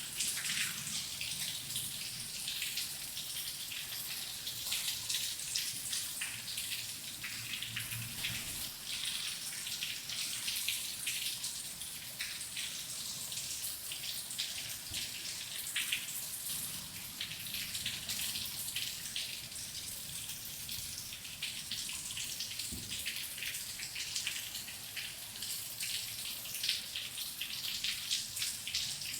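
Steady rain: a dense, even hiss with many individual drops striking close by.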